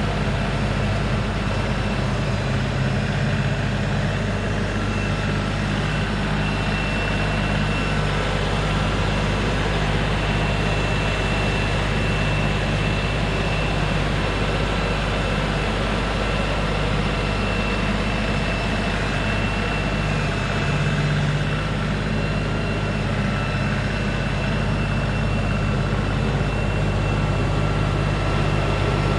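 LS MT3 compact tractor's diesel engine running steadily, with small shifts in its pitch.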